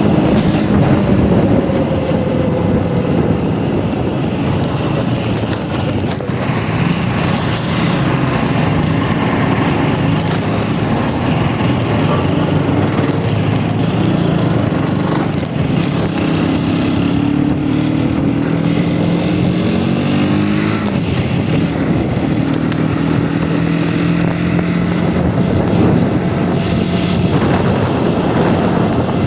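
Aprilia Tuono 125's single-cylinder four-stroke engine running while ridden, its note rising and falling with the throttle in the second half, over heavy wind noise.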